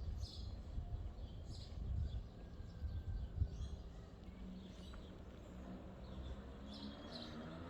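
Small birds chirping in short repeated calls over a low rumble. A steady low hum comes in about halfway.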